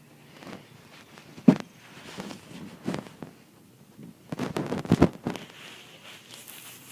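Scattered knocks and thumps, the sharpest about a second and a half in and a cluster of them around five seconds in.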